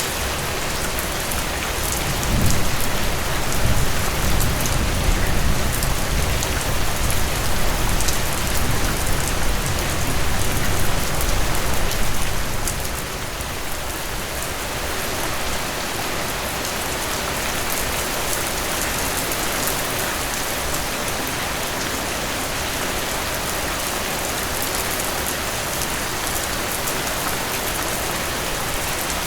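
Steady rain falling, with a low rumble from about two seconds in until about twelve seconds.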